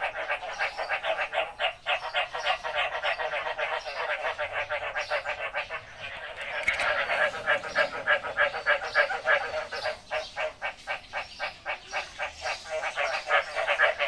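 Frogs calling in a rainy-season chorus: rapid pulsed croaks, several a second, running on with a brief lull about halfway through.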